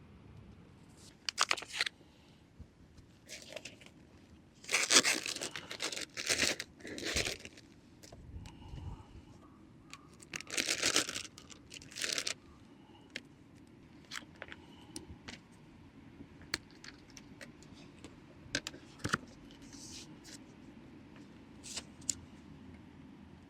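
Hands handling crinkly material, likely packaging: several bursts of crinkling and tearing, loudest about five and eleven seconds in, with scattered light clicks and knocks.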